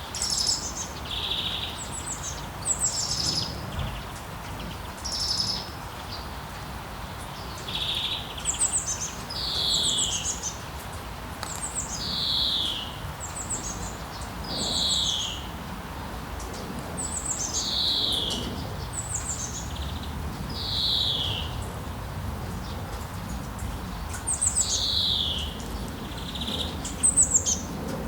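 Songbirds singing over and over: bright chirps and short phrases that slide down in pitch, repeating every two to three seconds, over a steady hiss of rain.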